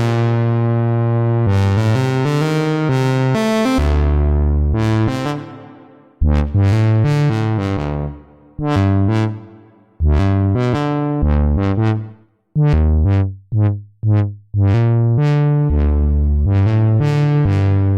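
Waldorf Pulse 2 analog monosynth playing a preset: a bass-heavy melodic line of single notes, each bright and buzzy with its filter sweeping open and closed, with a quick run of short staccato notes a little past the middle.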